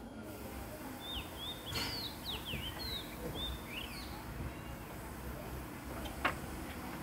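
Small birds chirping in quick, short calls that sweep up and down, with a sharp click about two seconds in and a louder one about six seconds in.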